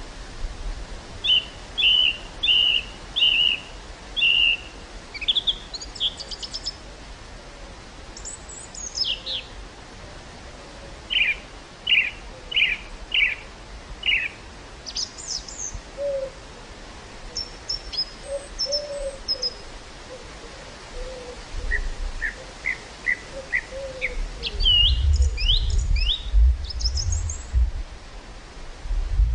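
Wild songbirds singing in quick series of short repeated chirps and trills, with a fainter lower-pitched call in the background. Wind gusts on the microphone make a low rumble near the end.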